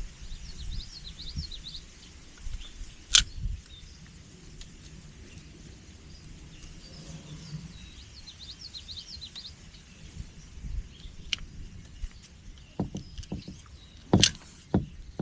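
Small birds chirping in short repeated phrases over a low rumble, with one sharp click about three seconds in and a handful of knocks near the end.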